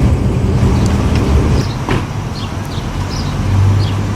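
A vehicle engine running with a steady low rumble that eases about a second and a half in and swells again briefly near the end. Short high chirps sound over it.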